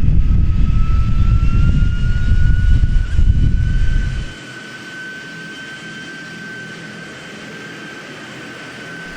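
Aircraft engine whine, a steady high tone rising slowly in pitch. Heavy low rumble of wind on the microphone covers the first four seconds and cuts off suddenly.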